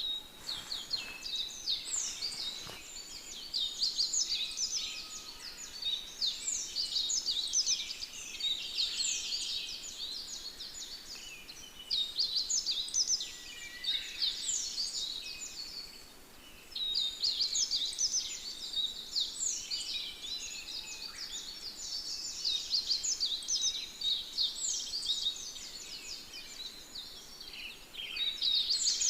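A dense chorus of small birds chirping and twittering in quick, high-pitched notes, with brief lulls now and then.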